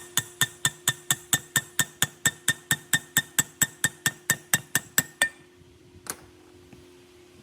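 A rapid, evenly spaced series of sharp taps, about four or five a second, that stops about five seconds in, followed by one more tap.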